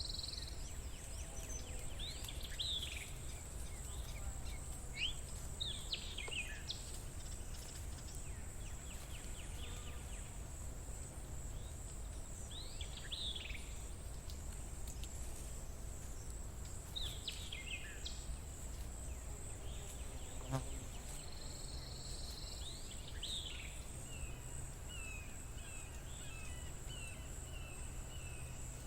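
Outdoor birdsong: short downward-slurred calls every few seconds and, near the end, a quick series of short repeated notes, over a steady high-pitched insect drone and a low background rumble.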